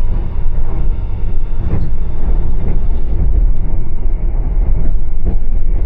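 Loud, steady low rumble of a train heard from on board, with faint scattered knocks.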